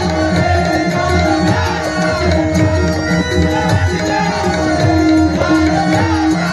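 Live bhajan music between sung lines: a hand drum plays a steady repeating rhythm under sustained held melodic notes.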